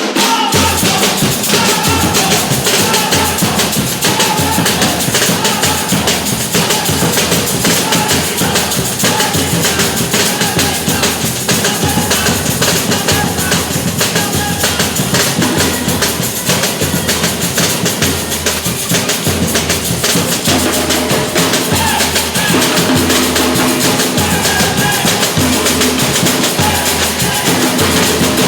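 Batucada samba percussion ensemble playing a dense, driving groove: deep bass drums keep a steady pulse under busy snare and small-drum patterns.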